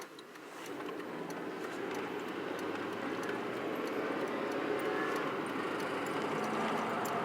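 Chevy C1500 pickup pulling away from a stop, its engine rising through first gear. About five seconds in, the 4L60E automatic shifts from first to second with a slight buzz like a vibrating spring, a noise the truck makes on that shift only when it is cold.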